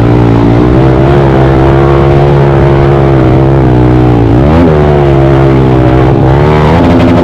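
Pit bike's single-cylinder engine running hard at a steady pitch under throttle. It dips and climbs back up about four and a half seconds in, and revs up again near the end.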